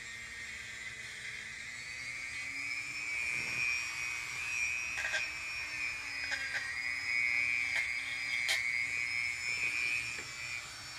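A small high-speed power tool sanding a Honda transmission case for polishing: a steady high whine that rises a little about two seconds in and dips slightly under load. A few sharp ticks come between about five and nine seconds in.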